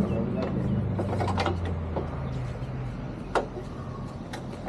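Scattered metallic clicks and clinks of hand tools at work on a car, the loudest about three and a half seconds in, over a low steady hum that fades out about halfway through.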